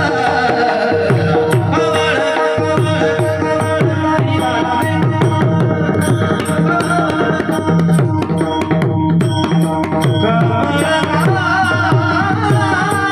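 Mridang, the barrel drum of Marathi kirtan, played in a fast continuous run, its deep bass strokes gliding down in pitch several times a second, over steady held notes from the accompaniment.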